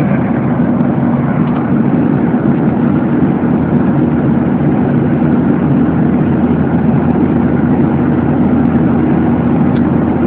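Steady cabin noise of a Boeing 737-800 in flight: the even roar of its CFM56-7B turbofan engines and the airflow, heard inside the cabin, with a low steady hum running under it.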